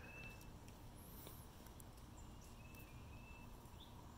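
Near silence: faint outdoor background with a few faint bird calls.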